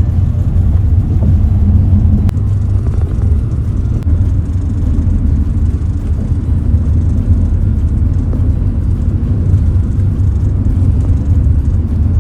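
Steady low rumble of a moving bus: engine and road noise, with a single brief click about two seconds in.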